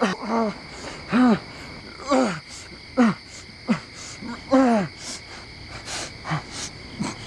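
A man sobbing in short, choked cries that fall in pitch, about one or two a second, over a steady chirring of crickets.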